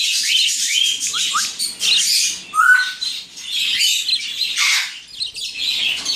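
Budgerigars chattering and chirping continuously, with quick rising and falling notes and short harsh squawks.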